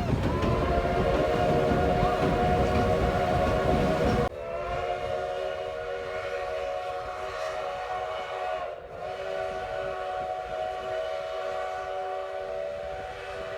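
Steam locomotive's chime whistle on the Durango & Silverton narrow gauge train blowing one long, steady chord. Rumbling train noise under it stops suddenly about four seconds in, and the whistle dips briefly about two-thirds of the way through.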